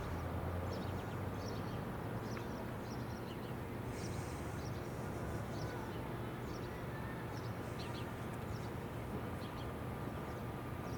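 Steady low outdoor rumble with scattered short, high bird chirps throughout.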